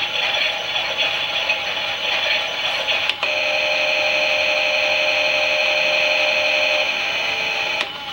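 Small battery motor of a Klein toy Miele washing machine running steadily with a high whine and a wavering hum, turning the drum. A click about three seconds in, after which the whine carries on, and the sound changes just before the end.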